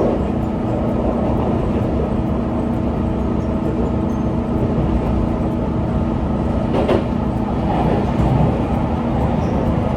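An electric train running at speed, heard from inside a passenger car: a steady rumble of wheels on rails with a constant motor hum. A single sharp clack comes about seven seconds in.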